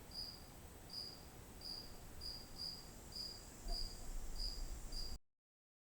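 A cricket chirping steadily, about two short high chirps a second. A low rumble joins in for the last second or so before all sound cuts off suddenly about five seconds in.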